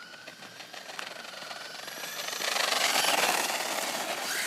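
Electric RC car's motor whining, then the car driving, with louder rattling tyre and running noise from about two and a half seconds in.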